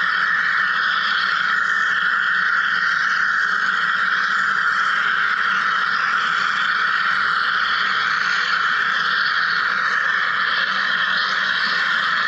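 Wire EDM machine cutting, a steady hiss that holds an even level throughout.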